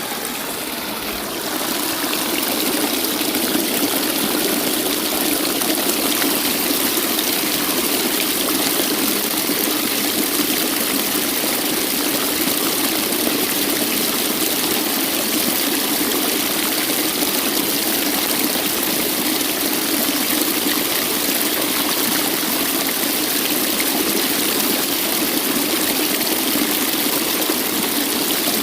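Waterfall: a steady, continuous rush of falling water, a little quieter for the first two seconds before settling at full level.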